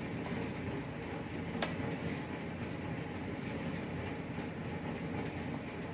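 Steady mechanical rumble, like a shop fan or machine running, with one sharp click about a second and a half in.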